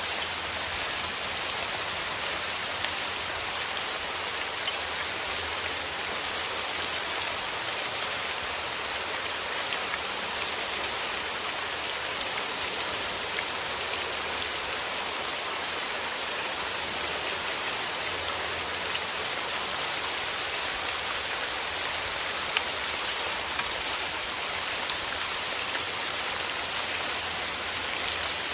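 Steady rain falling on surfaces, an even hiss with many small drop ticks.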